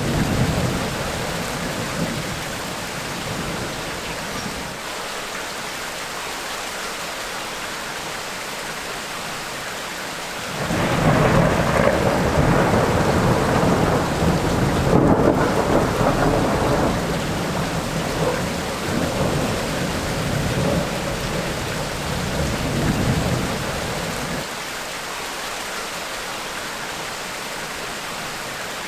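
Tropical rainstorm: steady heavy rain with thunder rumbling over it. A long roll of thunder comes in about ten seconds in and rumbles for over ten seconds before fading back to rain alone.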